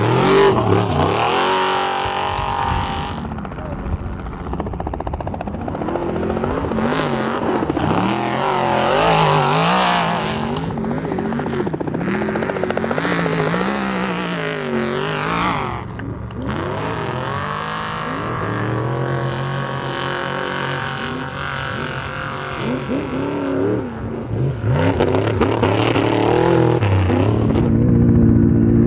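Off-road race truck engines running hard, their pitch rising and falling again and again as they rev.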